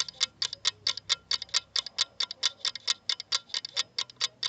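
Clock-ticking sound effect of a quiz countdown timer: fast, even ticks, about six a second.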